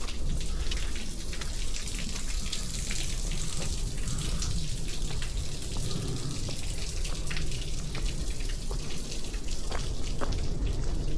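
Footsteps on a forest trail, a dense crackle of leaf litter, twigs and soft ground under a hiker's shoes, over a steady low rumble of wind and handling on the camera's microphone.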